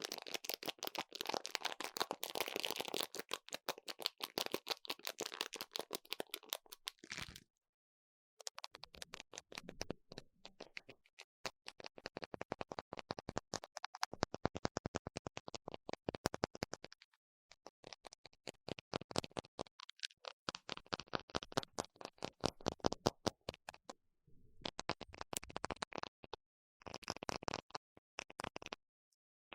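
Close-miked ASMR tapping and scratching on a hard object: a dense scratchy stretch, then runs of fast, even taps, many a second, broken by short pauses.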